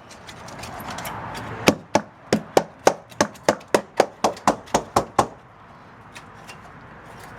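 A hand tool striking the hard underside of a hauled-out boat in a quick run of sharp taps, about four a second, which stop about five seconds in.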